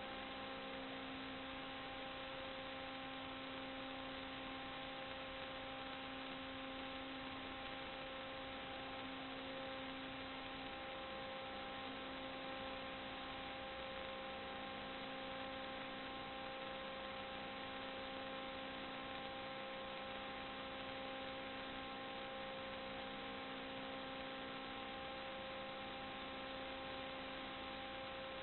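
Steady electrical hum made of several constant pitches over an even hiss, unchanging throughout: line noise in the recording, with no other sound.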